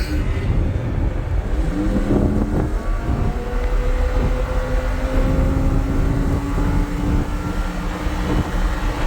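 Lamborghini Huracán V10 engine pulling under load on a track, its note climbing slowly through a gear from about two seconds in, over a heavy low rumble of road and wind noise.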